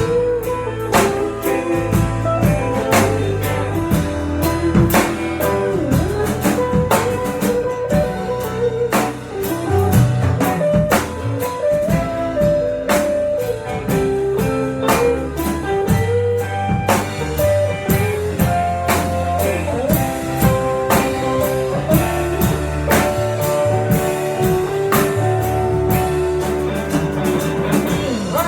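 A blues band playing an instrumental passage, with guitar lines that bend in pitch over a drum kit beat and sustained low notes.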